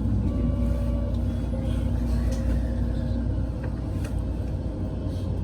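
A local train standing at a station: a steady low rumble and hum from the stopped train, with one hum tone cutting off about three seconds in and a few faint clicks.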